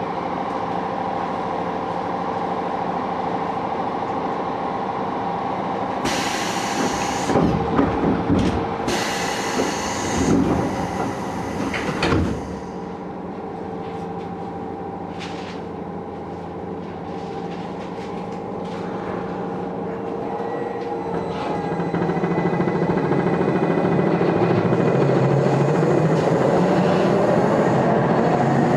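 Inside a Tokyo Metro 6000 series subway car: a steady equipment hum, then a loud stretch of door and rattling noise ending in a sharp knock about twelve seconds in. From about twenty seconds the Hitachi three-level inverter and traction motors get louder, with a whine rising in pitch near the end as the train accelerates away.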